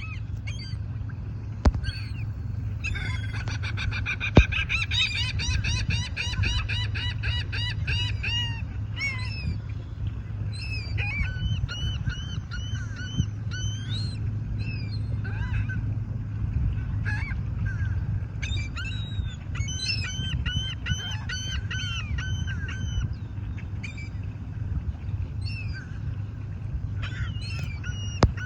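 A flock of seagulls calling, many short harsh cries in quick runs that overlap, over a steady low rumble.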